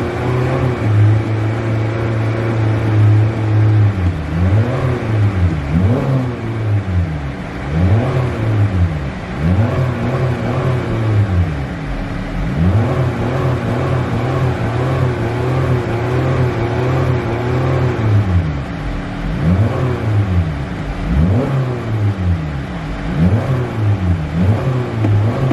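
Car engine held near idle for the first few seconds, then revved in repeated short blips, its pitch rising and falling about every one to two seconds.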